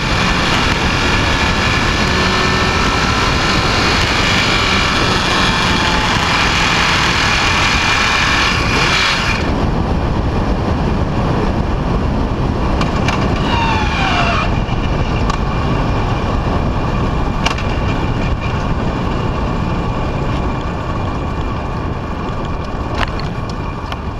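Motorcycle on the move, with heavy wind noise on the microphone. About ten seconds in, the higher engine sound stops abruptly and a few falling tones follow. The noise then slowly fades as the bike loses speed, consistent with the engine having cut out after running out of oil.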